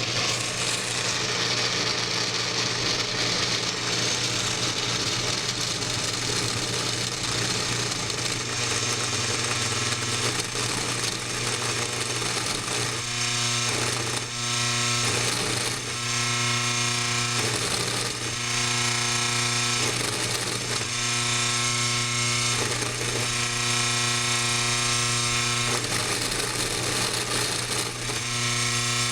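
Washing machine motor used as a CNC spindle, running with a steady hum. From about halfway through, a pitched whine starts and stops in stretches of one to two seconds.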